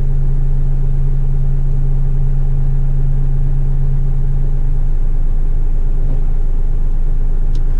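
Diesel engine of a heavy rigid front-lift garbage truck running steadily with a low, unbroken hum.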